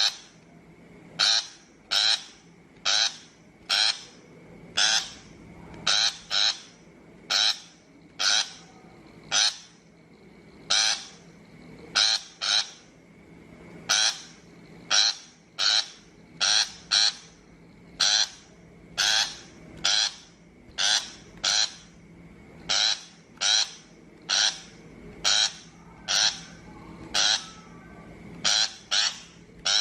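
Shrike giving short, harsh calls over and over, roughly one to two a second with brief gaps between them.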